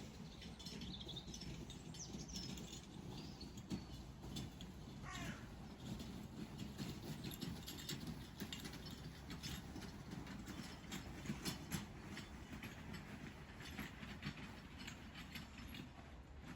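A loaded hand trolley being pushed over frozen ground: a steady rumbling from its wheels with many small rattling clicks.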